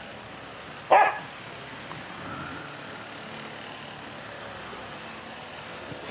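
A dog barks once, sharply, about a second in, over a faint steady hiss.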